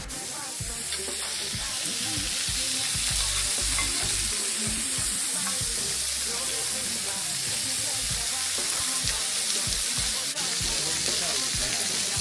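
Food sizzling as it fries: a steady, even hiss with no break, and irregular low thuds beneath it.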